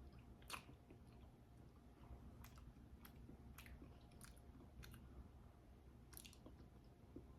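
Quiet chewing of a piece of milk chocolate with mango filling, with a few soft, scattered mouth clicks.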